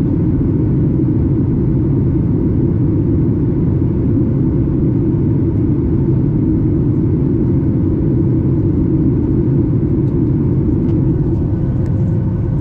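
Steady cabin noise inside a Boeing 737 MAX 8 in flight: a deep, even rumble of its CFM LEAP-1B turbofan engines and rushing air, with a faint steady hum on top.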